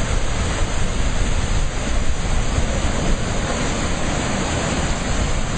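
Sea waves breaking and washing, a steady rush of surf, with wind buffeting the microphone.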